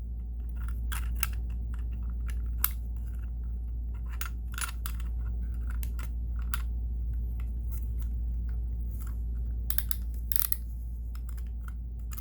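Irregular small clicks and clacks of a sewing machine buttonholer attachment being handled, its template and plate pushed into place by hand, over a steady low hum.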